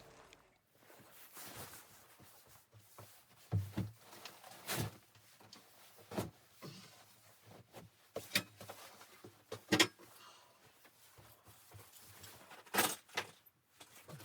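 Irregular knocks and clunks of handling in a small room: about seven sharp ones spread over the stretch, with quieter rustling between.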